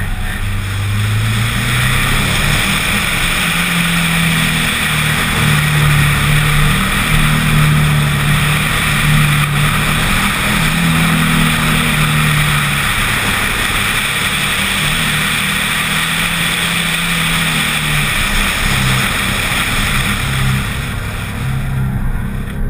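Mazdaspeed6's turbocharged four-cylinder engine pulling hard through an autocross course, its pitch rising and falling again and again as the driver accelerates, lifts and brakes between cones. A steady rush of wind and road noise runs under it.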